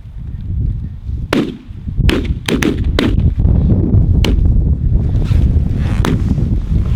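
A volley of shotgun shots from several hunters firing at geese, about eight sharp reports in quick, uneven succession starting about a second in, with one late shot near the end. Strong wind buffets the microphone throughout.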